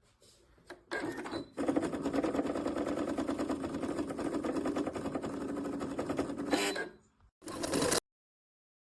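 Singer Quantum Stylist 9960 computerized sewing machine running and stitching, its needle going in a fast, even rhythm for about five seconds. It stops near the end, then runs again briefly.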